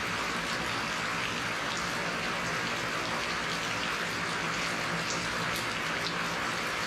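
Steady rain falling: an even hiss, with a few separate drops heard now and then.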